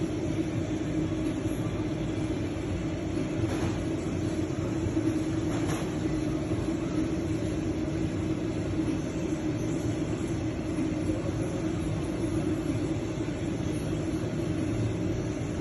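A car engine running steadily, an even low rumble.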